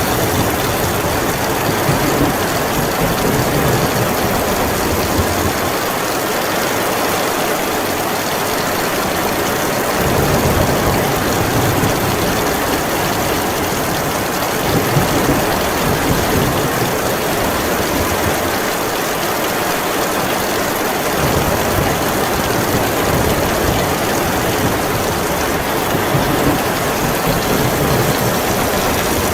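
Heavy, steady rain in a storm, with a deep low rumble underneath that drops away twice for a few seconds and swells back.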